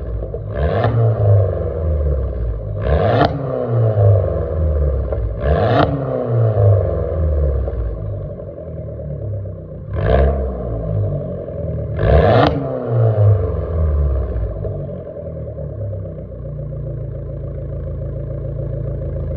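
Fiat 500 Abarth's turbocharged 1.4-litre four-cylinder engine heard through its exhaust, blipped in five short revs that rise and fall back, then settling to a steady idle near the end.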